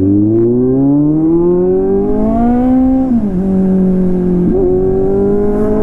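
Kawasaki Z800's inline-four engine accelerating. Its pitch climbs steadily through one gear, drops sharply at an upshift about three seconds in, then holds steady.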